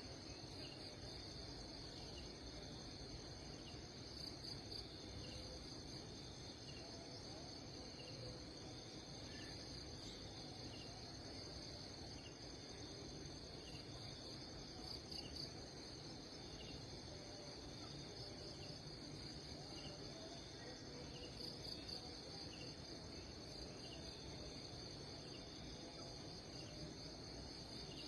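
Steady, high-pitched chirring of insects such as crickets, swelling briefly a few times, with faint regular ticks a little lower in pitch, over a low background rumble.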